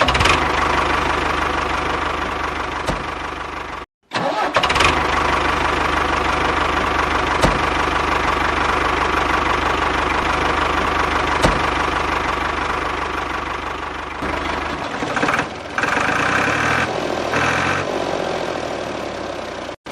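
Small motor-driven machine running steadily with a mechanical whir, broken by a brief cut about four seconds in; near the end the low hum drops away and the running turns thinner and uneven.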